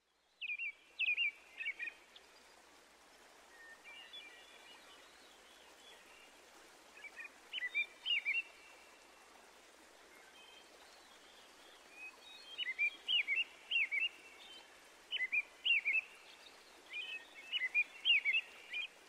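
Small birds singing: groups of short, quick chirps and trills every second or two, over a steady faint background hiss.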